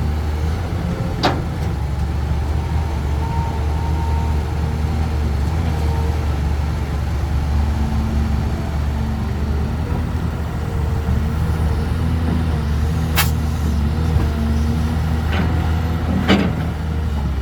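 Heavy diesel engine running steadily at a constant low drone, with three short sharp knocks spread through it.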